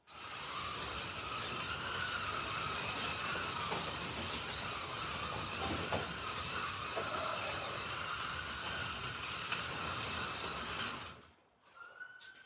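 Several slot cars running together on the track: a steady electric-motor whine with a rushing noise. It starts abruptly and cuts off suddenly about eleven seconds in, when the track power drops. Near the end a thin siren-like tone rises and then falls.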